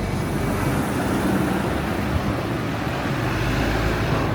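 Steady low rumble of moving vehicles in city traffic.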